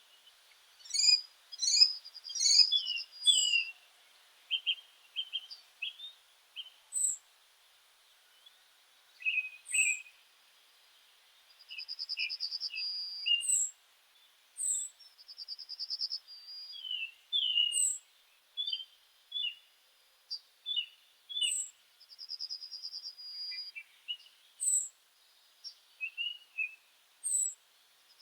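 Several meadow birds calling and singing: a high, even trill about a second and a half long comes back a few times, with short high down-slurred whistles and lower chirps scattered in between.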